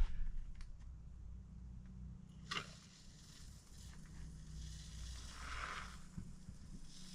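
Can of spray foam insulation hissing as foam is dispensed: a short sharp spurt about two and a half seconds in, then a softer hiss near the end. Under it is a low steady hum.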